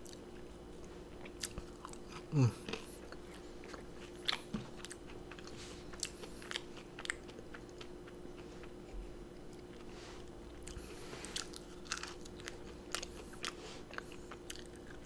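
Close-miked chewing of cheese-dipped steak fries: soft, scattered wet mouth clicks and smacks, with a short falling hum about two and a half seconds in. A faint steady hum sits underneath.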